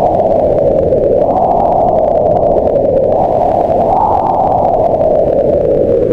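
Wind blowing steadily, its whistling pitch swelling up and falling back in slow gusts about every second or two.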